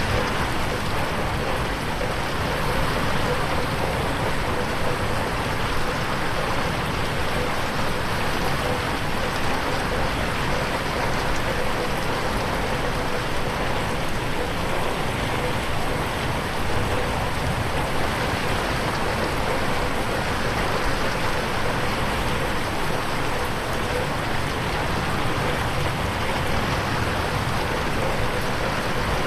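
Steady rain falling on a window, an even patter of drops with no pauses.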